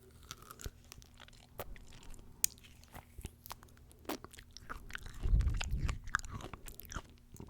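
Close-miked eating of fresh fruit: small wet clicks and crunches of biting and chewing, with a louder stretch of chewing about five seconds in.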